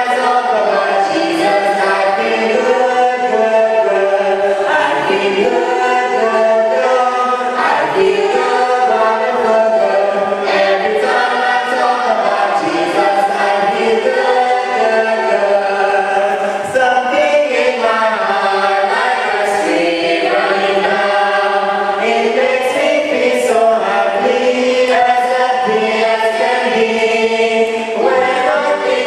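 Church congregation singing a hymn together, many voices in unison without a break.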